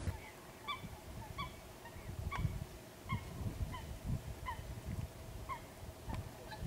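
A bird calling repeatedly, a faint, short falling call about once a second.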